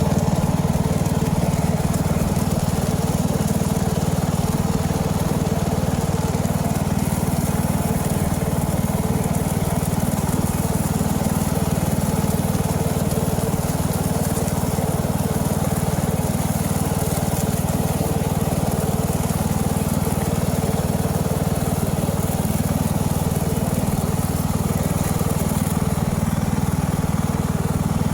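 Lawn tractor engine running steadily at a constant speed.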